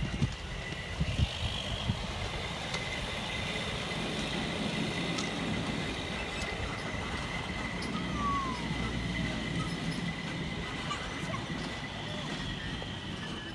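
Vehicle engine running steadily with a low rumble, under a constant high-pitched tone and a few faint clicks.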